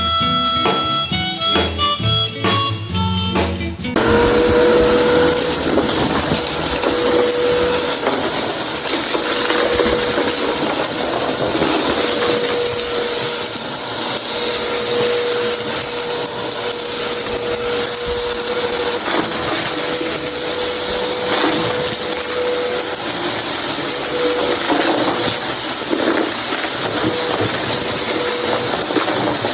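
A short music intro, then, from about four seconds in, a vacuum cleaner running steadily: a rush of air under one steady hum.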